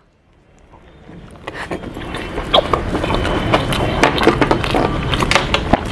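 Close-miked chewing of a big mouthful of chicken burger: wet mouth clicks and crackles, rising from near silence over the first two seconds.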